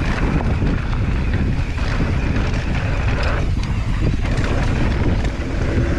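Wind rushing over a camera microphone at riding speed on a mountain bike descending a dirt jump trail, with a steady low rumble of tyres on the trail and a few faint knocks.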